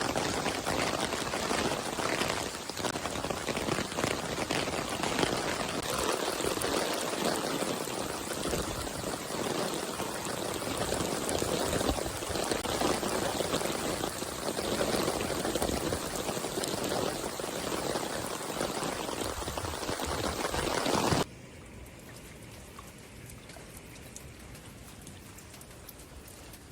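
Heavy rain falling and splashing on surfaces, a dense steady hiss. About three-quarters of the way through it drops abruptly to much quieter, lighter rain.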